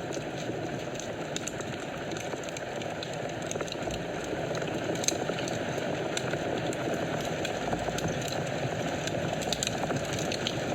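Wood fire burning in a fireplace: a steady rush of flames with scattered sharp crackles and pops.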